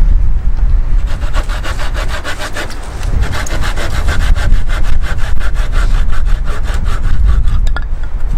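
A hand saw cutting firewood, in quick, even back-and-forth strokes with a brief pause about three seconds in.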